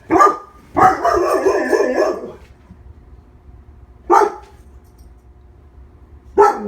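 Year-old female Labrador retriever barking: a sharp bark at the start, a longer, rougher burst about a second in, then single barks about four seconds in and near the end.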